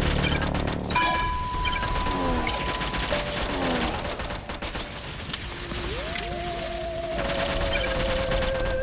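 Sound-effects interlude with no beat. Dense crackling and popping runs throughout. A steady electronic beep holds for about two seconds starting a second in, short falling electronic chirps repeat, and a wavering whistle glides up about six seconds in and holds.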